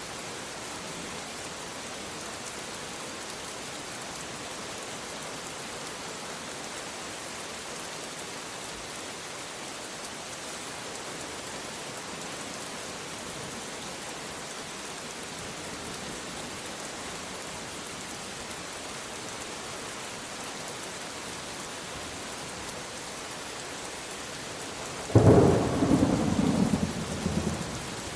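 Steady heavy rain hissing, with a sudden loud clap of thunder near the end that rumbles and fades over a couple of seconds.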